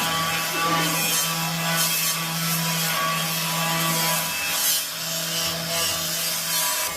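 A power tool working a surface: a steady motor hum under a continuous rasping, scraping noise that swells and fades slightly.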